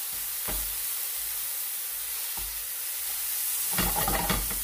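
Chopped onions and spices frying in a pan with a steady sizzle. A couple of single knocks and a short burst of clatter near the end, typical of a utensil working the pan.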